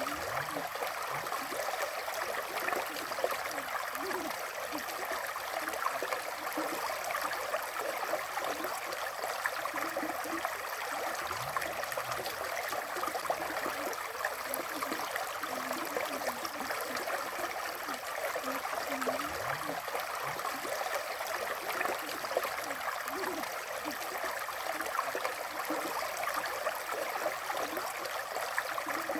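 River water flowing steadily, an even rush of water with short low gurgles here and there.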